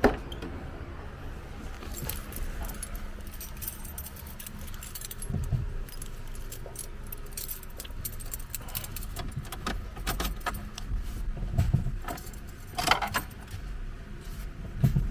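Scattered light metallic clicks and jangling, with a cluster of louder knocks about two-thirds of the way in, over a low steady engine idle.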